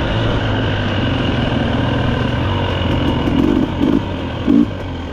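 Dirt bike engine running steadily, with a few short louder bursts in the second half.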